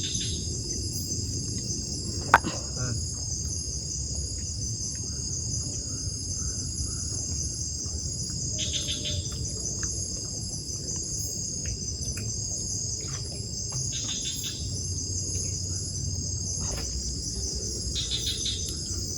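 A steady, high-pitched chorus of night insects such as crickets goes on over a low, even background rush. About two seconds in there is a single sharp click, and a few short rattling calls come and go.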